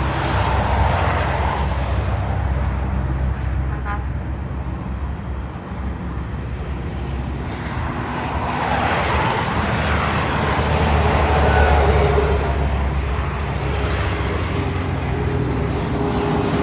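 Heavy road traffic with big diesel trucks going past, their engines and tyres making a steady low drone that dips and then swells again about two-thirds of the way through as another vehicle passes close.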